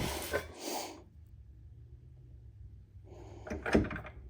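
Rustling handling noise, a pause, then a quick cluster of knocks and clunks about three and a half seconds in, as the axle and hub parts are forced and wiggled into place and won't line up.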